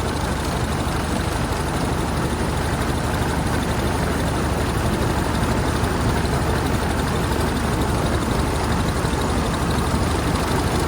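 Brush Runabout's single-cylinder engine running steadily as the car drives flat out at about 20 mph, under an even rush of wind and road noise.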